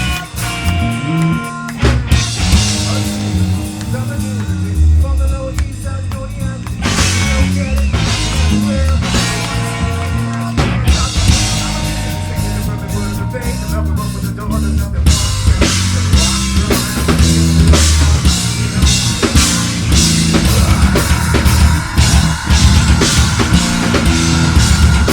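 Live heavy metal band playing: pounding drum kit with bass drum under distorted guitar and bass. A sustained held guitar note enters about twenty seconds in.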